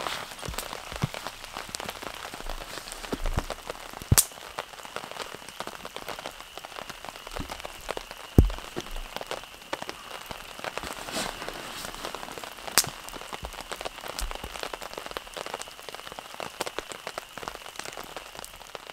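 Heavy rain falling on a tarp shelter: a dense, steady patter of drops with a few louder sharp taps a few seconds apart.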